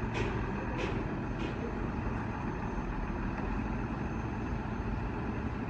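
Truck engine running steadily, with a few short high ticks during the first second and a half.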